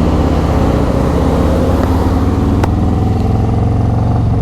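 Harley-Davidson Road Glide's Screamin' Eagle 128 V-twin running at a steady cruising speed through a Khrome Werks 2-into-1 exhaust, a steady deep exhaust note with wind noise over it.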